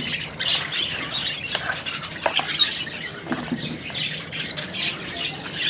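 Budgerigars chirping and squawking in a busy, continuous chatter, with a few short clicks.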